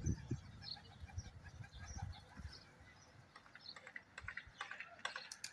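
Faint, scattered chirps of birds, with a few low thumps at the start and a quick run of sharp clicks near the end.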